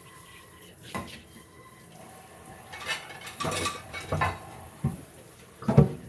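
Dishes and utensils clattering in a kitchen: a series of separate knocks and clinks, the loudest near the end.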